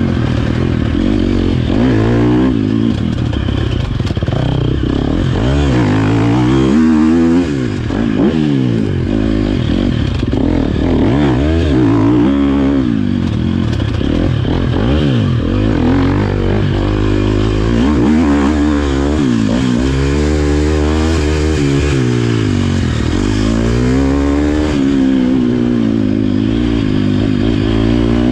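Motocross bike engine revving up and falling back again and again, the pitch climbing and dropping every few seconds as the bike accelerates and slows around the track.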